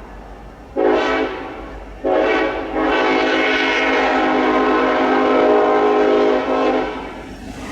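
Diesel locomotive air horn sounding a chord: two short blasts, then a long blast of about four seconds that cuts off, the pattern of a level-crossing warning.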